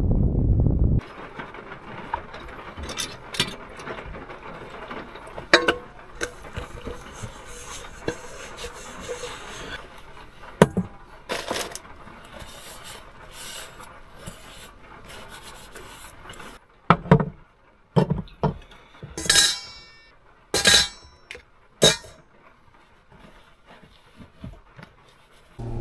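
Handling of cookware and dishes: scattered knocks, clinks and rubbing over a steady hiss. The hiss drops away about two-thirds of the way through, leaving a few separate knocks. A loud low rumble cuts off suddenly about a second in.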